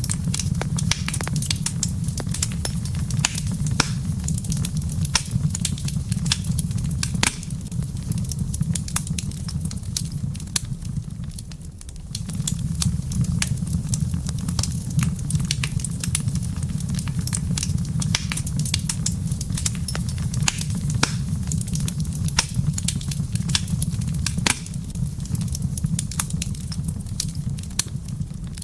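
Wood fire crackling in a fireplace: frequent sharp pops and snaps over a steady low rumble. The rumble drops away for a moment about twelve seconds in.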